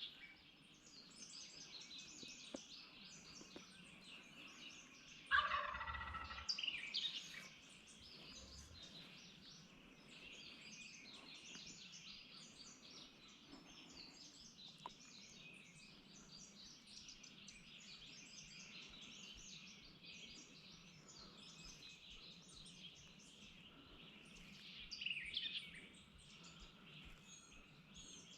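Wild turkey gobbler gobbling once, loudly, about five seconds in, over a steady chorus of songbirds. Another loud bird call comes about 25 seconds in.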